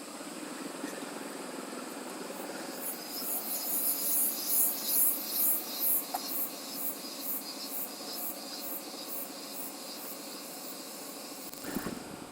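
Steady rushing wind and road noise on a moving motorcycle. For several seconds in the middle there is a high-pitched pulsing, about two beats a second.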